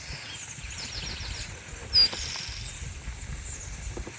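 Small birds calling in woodland: a quick run of short high chirps about a second in, then one sharp, loud, high whistle-like chirp about two seconds in, with fainter chirps scattered around. A low rumble runs underneath.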